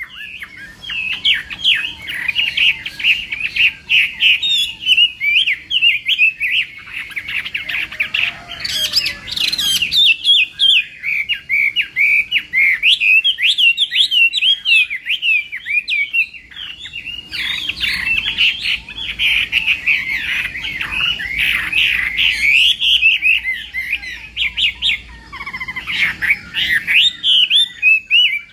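Chinese hwamei (họa mi) singing a loud, fast, varied song of quickly sliding whistled notes, with a short lull about a third of the way in.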